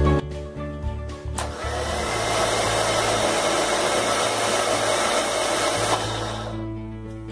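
A steady hiss of rushing air, like a blower or air jet, starting suddenly and running about five seconds before stopping, over soft background guitar music.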